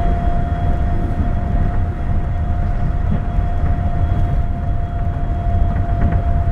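Astram Line 7000-series rubber-tyred automated guideway train running at a steady speed: a continuous low rumble with a steady high whine from the traction motors.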